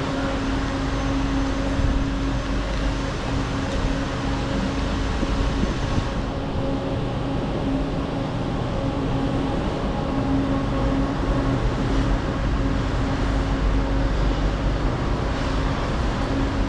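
Metro train's steady low rumble with a constant electrical hum, no rising or falling in pitch.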